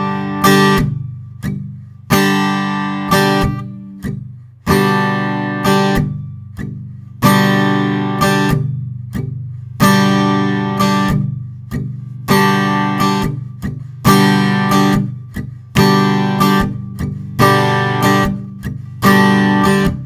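Acoustic guitar strummed in a repeating campfire pattern. Two short down-strokes are damped by the edge of the strumming hand, then an open down-stroke rings out, and a quick up-stroke leads back into the next cycle, which comes about every two seconds.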